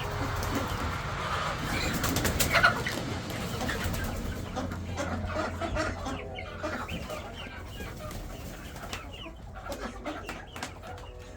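Chickens clucking and calling softly, many short calls overlapping, over a steady low rumble. A quick burst of sharp clicks comes about two and a half seconds in.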